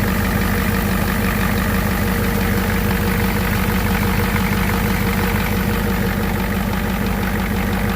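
Ford 7.3 L Power Stroke diesel engine idling steadily, running again once the burnt glow plug control module and relay were replaced, curing its crank-but-no-start fault.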